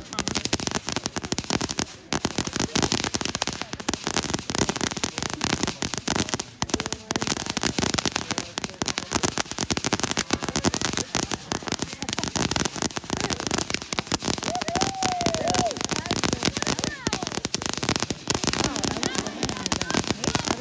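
Fireworks going off in quick, unbroken succession: a dense run of crackling pops that never stops.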